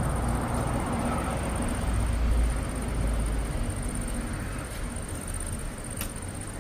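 Rolling thunder: a low rumble that swells about two seconds in and then slowly fades.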